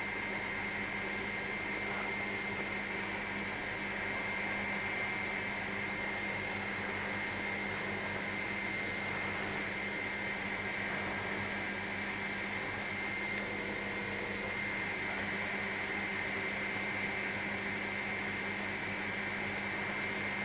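Helicopter in flight heard from inside the cabin: a steady drone and hiss with a constant high whine over a low hum, unchanging throughout.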